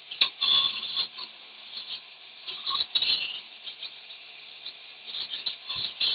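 Scratchy scraping in irregular strokes, with a few sharp clicks, as rust is cleaned out of the threads of an old excavator sprocket bolt.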